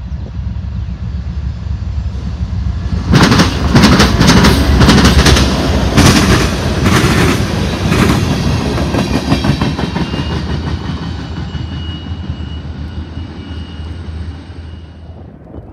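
CSX diesel-hauled freight train passing close by. The locomotive rumble builds, then about three seconds in the wheels clatter loudly over the rail joints for several seconds. The sound fades as the train moves away, with a faint high squeal near the end.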